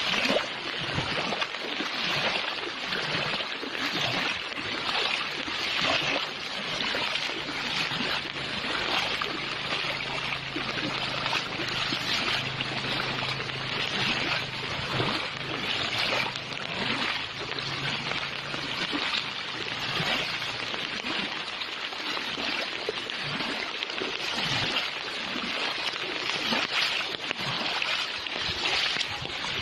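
Fast-flowing floodwater rushing past in a steady, churning hiss. A faint low hum sits under it for about ten seconds in the middle.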